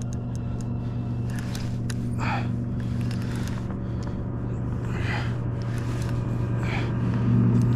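MotorGuide Xi3 electric trolling motor humming steadily, holding the kayak in place; it grows louder about seven seconds in.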